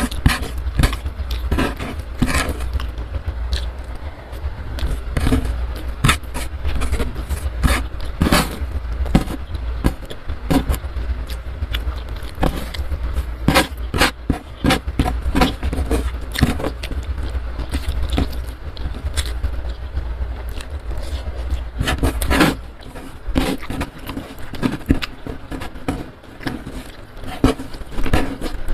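Close-miked eating sounds: wet chewing and mouth clicks, coming thick and irregular, over a low steady hum that stops about three-quarters of the way through.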